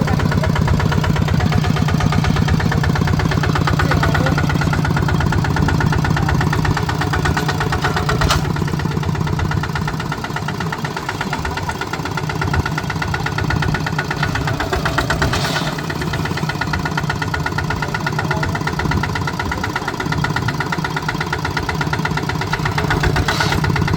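Tractor engine running steadily at a low, even speed, with a single sharp click about a third of the way through.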